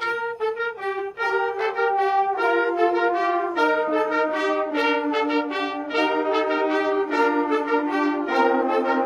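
High school marching band's brass section playing a holiday tune: short repeated notes at first, then held chords over a bass line that steps downward.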